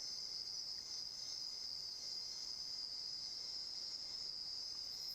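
Steady, high-pitched chorus of insects, one continuous shrill trill with no breaks.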